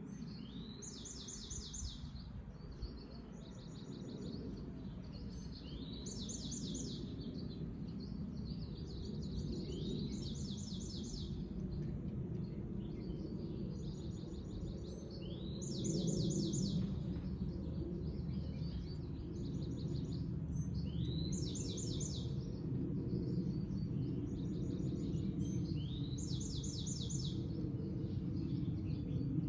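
A songbird singing the same short, high phrase over and over, a few seconds apart. Each phrase is a quick rising note followed by a fast trill of about half a dozen notes. Underneath runs a steady low rumble of background noise.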